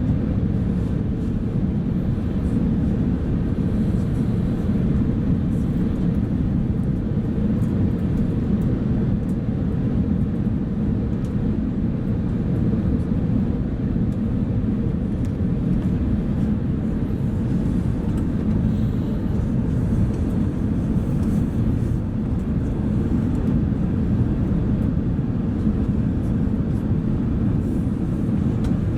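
Steady low rumble of cabin noise inside an Airbus A380 airliner, with a faint hum and no change in level.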